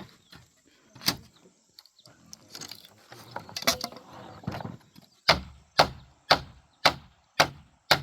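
A sharp knock, some scraping and handling noise, then a run of evenly spaced heavy strikes, about two a second, through the last few seconds.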